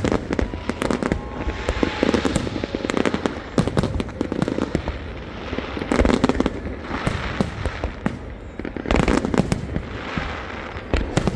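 Fireworks display: aerial shells bursting in a dense run of sharp bangs, coming in waves every couple of seconds, with crackling between the bursts.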